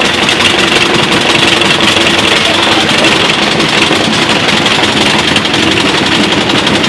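Washing machine spinning hard with a brick in the drum, giving a loud, steady, fast rattling clatter that keeps up without letup. The load badly overstrains the machine; its motor burns out and its drive belt slips.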